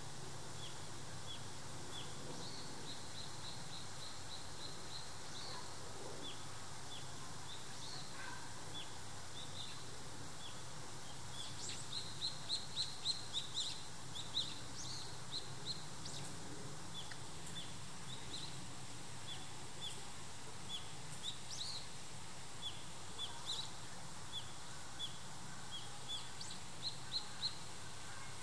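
Small birds chirping: short high chirps about once a second, with quicker runs of chirps about midway and again near the end, over a steady low background noise.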